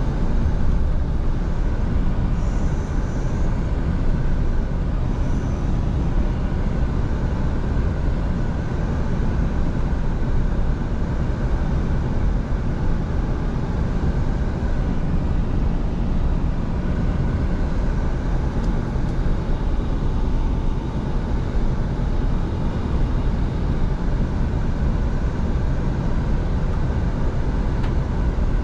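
Scania V8 diesel truck driving at a steady speed: a constant engine drone mixed with road and wind noise.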